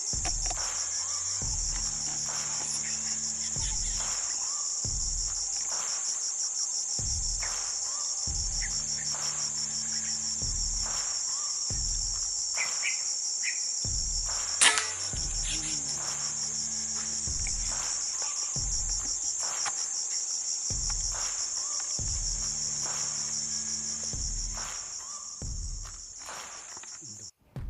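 Steady high-pitched insect chorus, with one sharp shot crack about halfway through.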